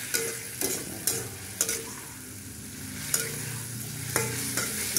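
A spice paste frying in a wok, sizzling steadily as a metal spoon stirs and scrapes it. The spoon clinks against the pan several times. The paste is being sautéed down until its water has mostly cooked off.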